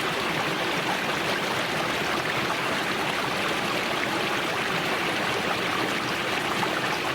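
Steady rain from a passing thunderstorm, an even hiss of falling drops.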